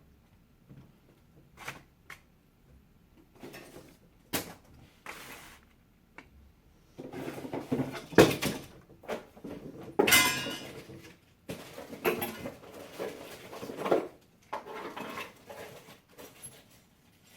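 Irregular clicks, knocks and rustling of computer parts and tools being handled, busiest in the second half with a sharp knock about eight seconds in.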